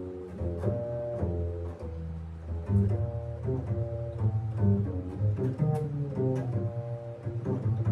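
A band playing a piece during rehearsal, with a strong, steady bass line under shifting pitched notes.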